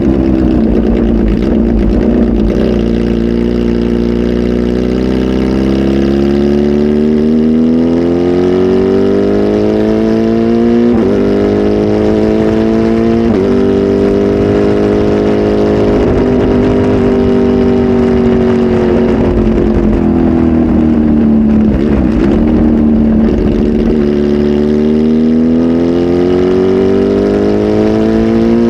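Kawasaki Z H2 SE's supercharged inline-four running loud through a full aftermarket exhaust on a flash tune. Its engine speed slowly climbs, levels off and drops, with a couple of abrupt shifts in pitch, and climbs again near the end.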